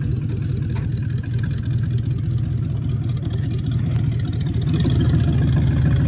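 Vehicle engine idling or running slowly, a steady low rumble that grows a little louder toward the end.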